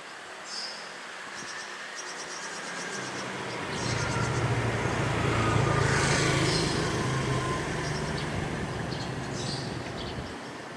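A motor vehicle passing by: a low engine hum that swells about four seconds in, is loudest around six seconds, and fades away near the end.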